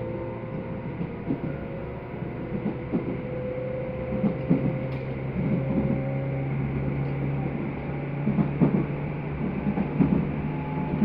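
Inside a Tobu 10030 series electric commuter train running on the line: a steady running hum with a few held tones, and wheels knocking over rail joints, some of the knocks coming in pairs.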